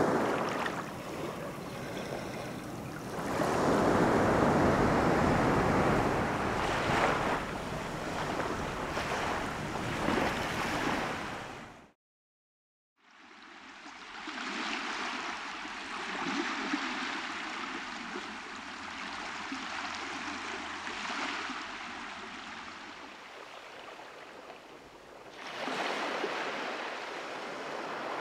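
Ocean waves washing onto a beach, the surf swelling and easing in slow surges. About twelve seconds in the sound drops out for a second where one recording cuts to another, and the second stretch is quieter, with a faint steady hum under the surf for about ten seconds.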